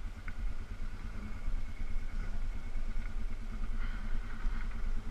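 ATV engine idling steadily, with an even low firing rhythm.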